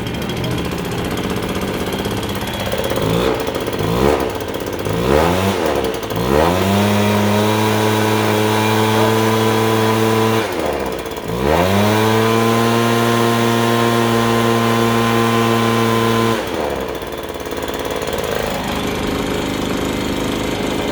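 Stihl BR430 backpack blower's two-stroke engine running on its first start after a crankcase repair. It idles, is blipped a few times, then is held at full throttle for a few seconds, dips briefly, goes back to full throttle, and drops back to idle near the end.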